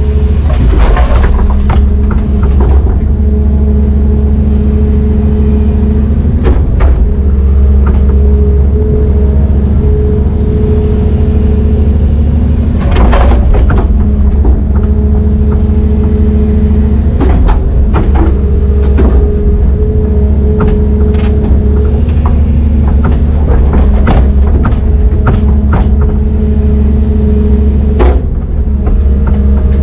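Diesel engine of a Brøyt X21 excavator running steadily with a deep drone, with occasional short knocks, the loudest about halfway through and near the end.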